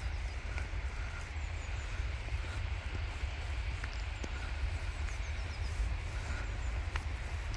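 Outdoor ambience: a steady low rumble with faint high chirps and a few light clicks.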